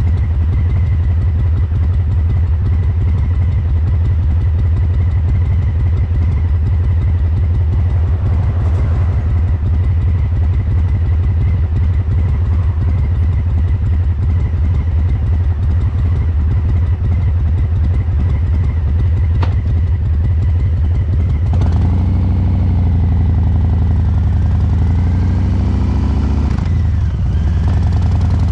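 Harley-Davidson Breakout 114's Milwaukee-Eight V-twin, breathing through COBRA Neighbor Hater slip-on mufflers, running at low revs with a steady, loping beat from its three-beat fuel-injection tuning. About 22 seconds in, the engine note rises and falls as the throttle is worked.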